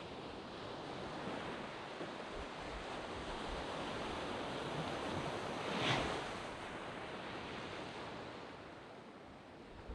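Waves breaking on a sand beach: steady surf hiss, with one wave crashing about six seconds in and then washing back and fading.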